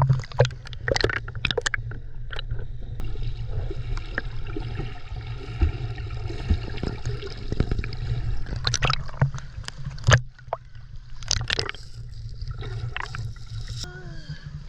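Water splashing and sloshing in irregular bursts as people move about in it, over a steady low rumble.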